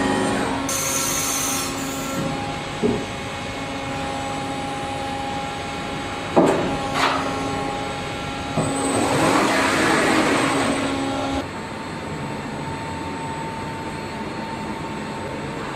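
Mill-turn CNC machine running, with a steady whine of several tones. Sharp knocks come about three seconds in and twice more a little after six seconds. A louder hiss lasts from about eight and a half to eleven and a half seconds, and then the whine changes pitch.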